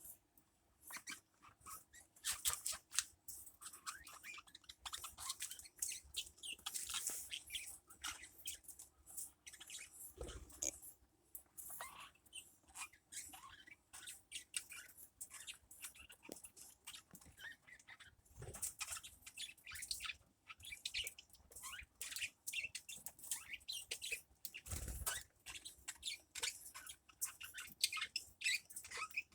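Small birds chirping, many short high peeps in quick, busy succession. A few soft low thumps come in between, roughly a third, two thirds and five sixths of the way through.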